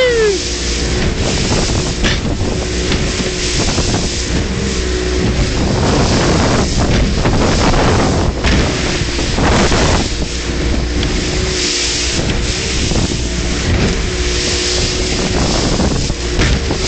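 A boat's motor running steadily under heavy, gusting wind buffeting the microphone, with water splashing and rushing past in irregular surges.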